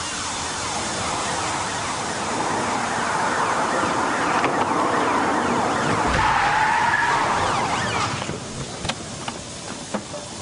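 Car chase ending in a crash: engines and tyres skidding, building to a long tyre screech, then cutting off about eight seconds in, followed by a few sharp knocks.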